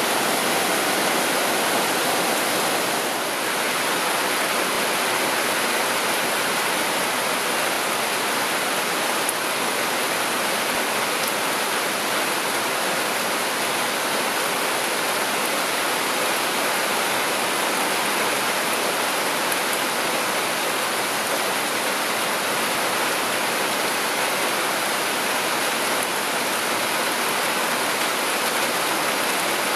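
Heavy rain pouring down steadily on forest foliage in an intense summer downpour, a dense even hiss.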